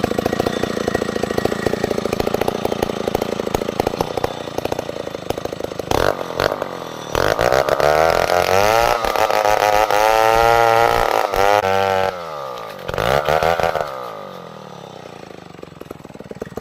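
Small petrol engine running, then revving up about six seconds in and held at high, wavering revs before dropping back. It revs briefly once more and then dies down.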